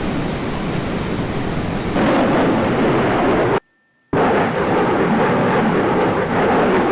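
Loud, steady rush of airflow and aircraft engine noise picked up by a camera mounted outside a military aircraft's fuselage in low-level flight. The sound drops out to near silence for about half a second in the middle, then resumes.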